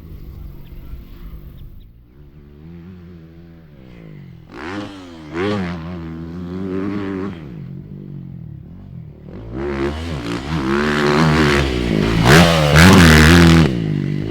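Motocross dirt bike engine revving up and down repeatedly as it is ridden around the track, growing louder over the last few seconds.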